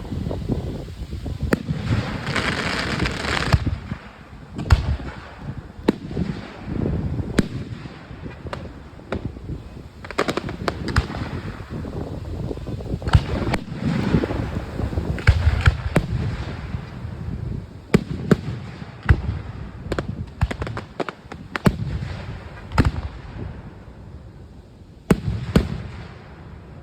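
Fireworks display: aerial shells bursting in an irregular series of sharp bangs, sometimes several close together, over a low rumble. The bangs thin out near the end.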